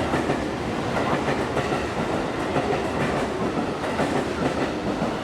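A limited express train running along the track at a station, its wheels clicking over the rail joints in a steady rumble.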